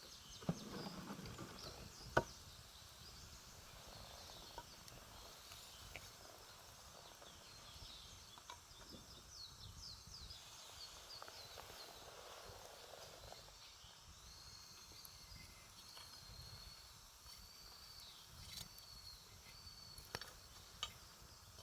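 Campfire crackling faintly, with scattered sharp pops and one louder pop about two seconds in. Faint high chirping runs through the background.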